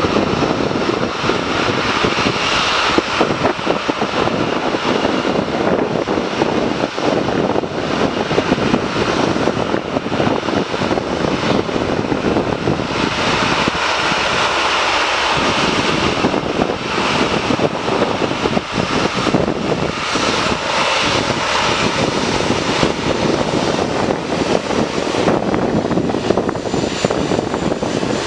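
Jet engines of an Airbus A380 running loud and steady during its takeoff, a continuous dense roar with no breaks.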